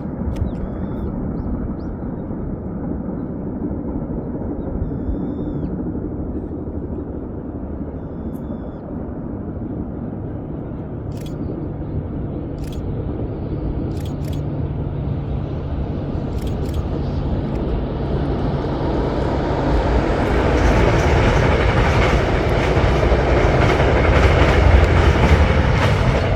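A train approaching along the track, with a steady low engine drone. It grows louder over the last third as it draws near, and the rumble and rail noise swell toward the end.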